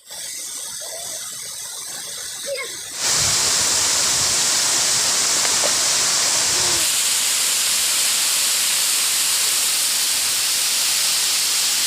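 Steady rush of a waterfall's falling water, stepping up abruptly to much louder about three seconds in.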